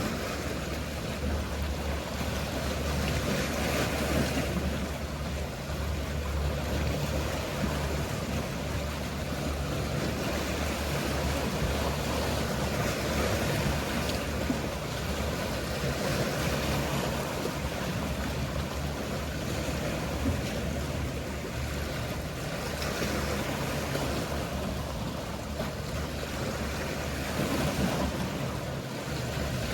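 Mediterranean sea waves washing and swelling every few seconds, with the low steady hum of a boat engine under them.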